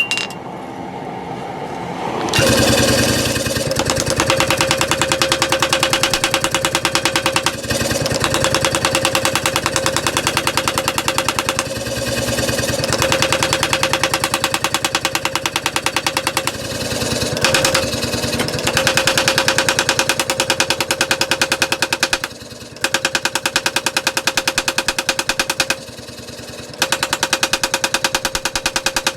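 A power hammering tool pounding metal in a rapid, continuous stream of strikes, stopping briefly a few times. It starts about two seconds in, just after a couple of separate ringing blows on metal.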